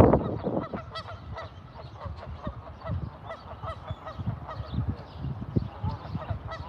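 Geese calling: a rapid, continuous series of short honks from several birds on a pond.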